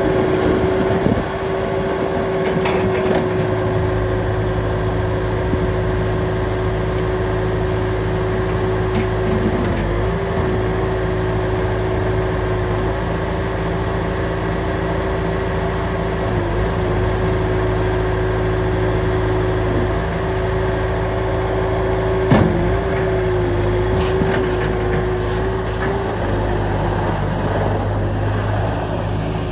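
Bobcat S300 skid steer loader running steadily, its engine and a steady whine holding one pitch that sags briefly three times; one sharp knock about three-quarters of the way through.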